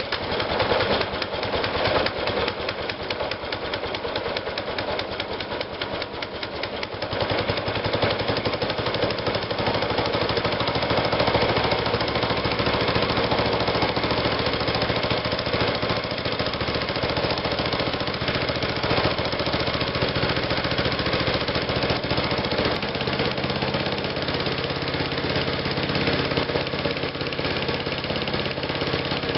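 Small go-kart engine running unloaded just after a cold start, with no chain or jack shaft hooked up, on freshly cleaned tank and carburettor bowl. It runs steadily and gets louder about seven seconds in.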